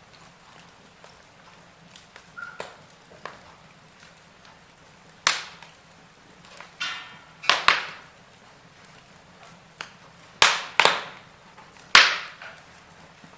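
Wood fire burning in a fireplace, giving off sharp cracks and pops every second or two, the loudest ones in the second half, over a faint hiss.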